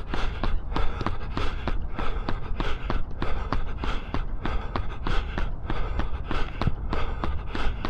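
A runner's footfalls striking the path at a steady running cadence, about three a second, with hard breathing from a threshold-pace effort. A steady low rumble runs underneath.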